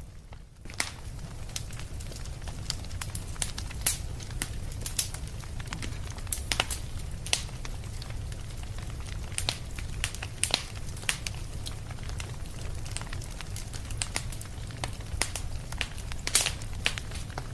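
Wood fire crackling, with many sharp irregular pops over a steady low rumble; the sound dips briefly just after the start, then carries on.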